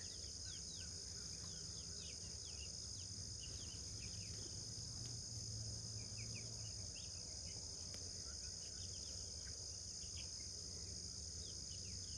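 Dawn chorus of small birds giving many short, scattered chirps over a steady high chorus of crickets, with a low hum underneath.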